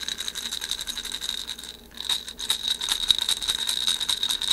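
Hand rattles shaken in a fast, steady rhythm with a bright, ringing, bell-like edge, as the song's accompaniment carries on between verses; the shaking stops briefly just before two seconds in, then resumes.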